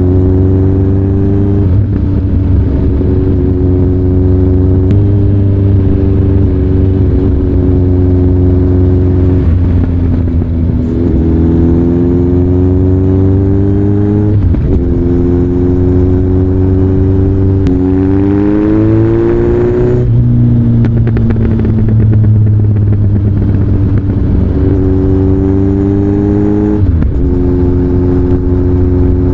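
Kawasaki ZRX1200 DAEG inline-four running through a Nojima aftermarket exhaust. The revs climb steadily over a few seconds and then drop sharply, again and again, with the steepest climb a little past the middle.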